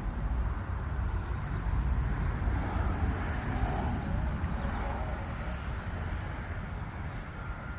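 Engine of a Dodge Ram fire truck running with a steady low rumble, easing slightly near the end.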